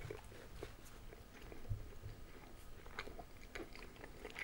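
Close-miked chewing of a mouthful of breakfast food, with soft wet mouth clicks and smacks scattered through and a couple of soft low thumps.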